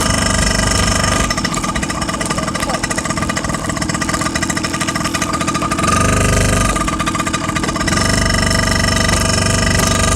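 A small motorcycle engine running while under way. The sound turns rougher and slightly quieter for a few seconds in the middle, then grows louder again.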